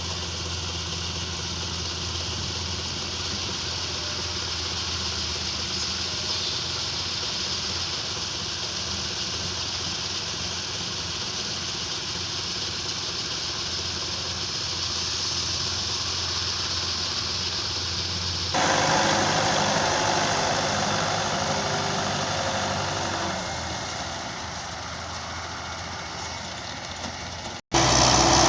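Heavy-machinery diesel engines running, steady with a low hum. About two-thirds of the way in it switches abruptly to a louder engine that slowly fades, and it changes sharply again just before the end.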